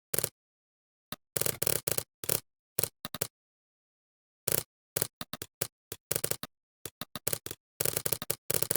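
Computer keyboard typing: irregular runs of quick keystroke clicks with short pauses between them, the gaps cut to dead silence.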